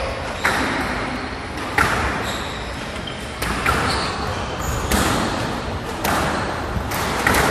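Squash rally: the ball cracks off rackets and the court walls in sharp hits about once a second, echoing in the court.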